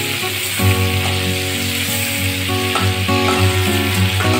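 Prawns frying in hot mustard oil in a wok, with a steady sizzle, while a spatula moves through the pan lifting them out. Background music with held notes plays over it.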